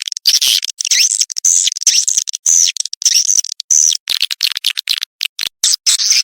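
Edible-nest swiftlets' courtship calls: dense, overlapping high twittering chirps, broken by frequent abrupt dropouts of a split second.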